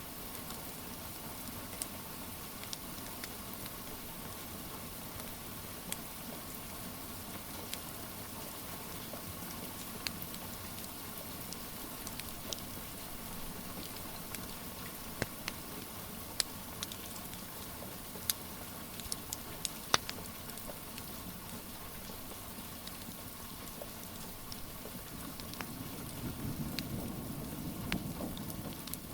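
Steady rain with scattered sharp crackles and pops from a wood fire. A low rumble swells near the end.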